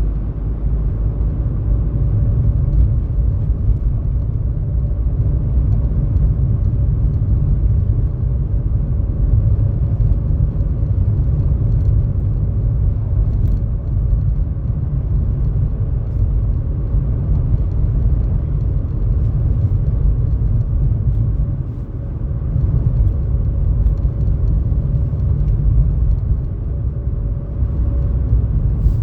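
Steady low rumble of a car driving, with a faint constant hum over it; the rumble briefly drops away about two-thirds of the way through.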